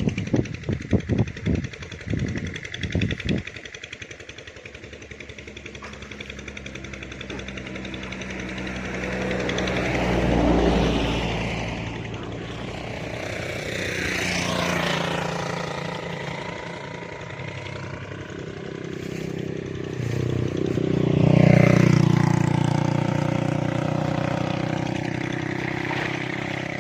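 Engines of vehicles passing by: a motor hum that rises and falls, swelling twice, about ten and about twenty-one seconds in. The first three seconds hold a rapid run of knocks or splashes.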